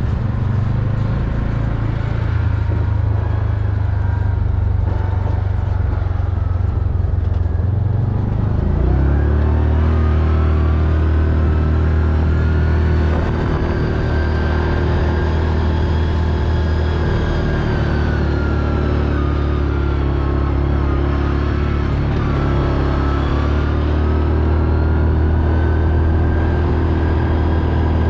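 Four-wheeler (ATV) engine running while riding. About nine seconds in, the engine speed steps up, then holds a steady drone with small rises and falls in pitch.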